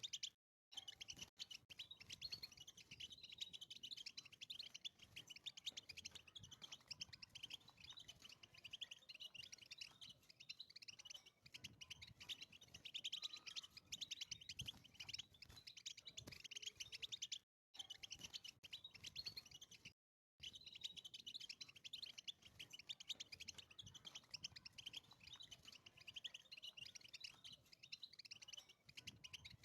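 European goldfinch singing: a continuous, fast, twittering song of trills and chirps, broken by a brief dead-silent gap about half a second in and two more around two-thirds of the way through.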